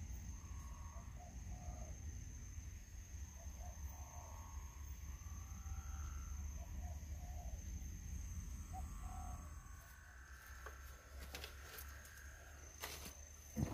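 Birds calling faintly in short repeated notes, heard in small groups, over a low rumble and a thin steady high tone. Near the end come a few sharp knocks and rustles close by.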